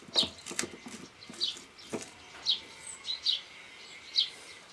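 A small bird chirping repeatedly: short, high, downward-sliding notes, roughly one or two a second. There are a few light knocks underneath.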